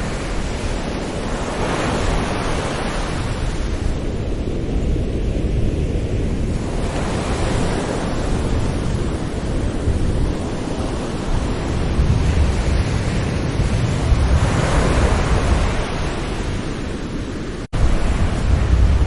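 Gentle sea waves washing onto a shore, a steady low rumble of surf with a louder hiss of breaking water swelling about two seconds in and again near the middle-to-late part. A split-second gap in the sound near the end.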